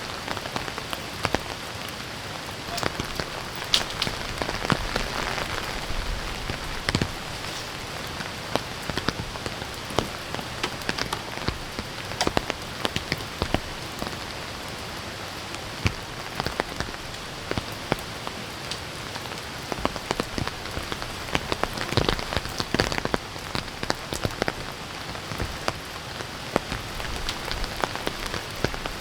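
Steady rain falling, with many individual drops landing close by as short, sharp ticks over an even hiss.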